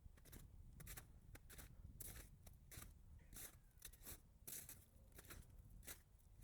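Faint footsteps crunching on frozen snow, about two or three crisp crunches a second at a steady walking pace.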